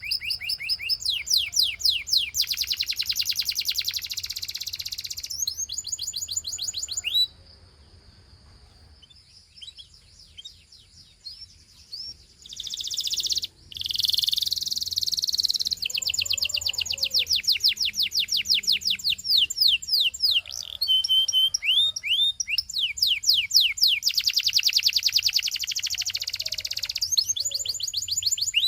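Gloster canary singing in fast trills of repeated sweeping notes. The song breaks off about seven seconds in, with only a few scattered notes for several seconds, then resumes in long rolling trills.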